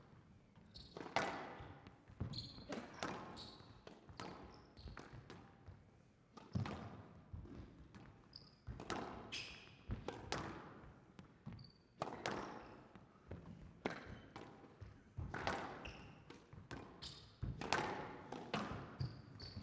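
Squash rally: the ball cracking off rackets and the court walls about once a second, each hit ringing in a hall, with short high squeaks of shoes on the court floor between hits.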